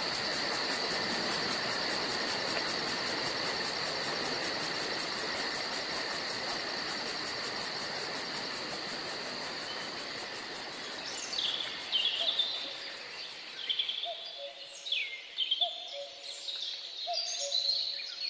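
Forest ambience: a steady hiss with fast high insect-like pulsing fades out, and birds take over about two-thirds of the way in with quick high chirps and whistles. Near the end a low two-note call, the second note lower, repeats about once a second.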